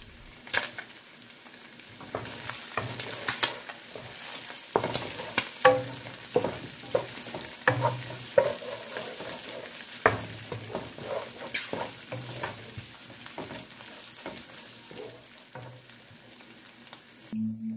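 Wooden spatula stirring gizzards frying in a nonstick wok, with frequent sharp taps and scrapes of the spatula against the pan over a steady sizzle.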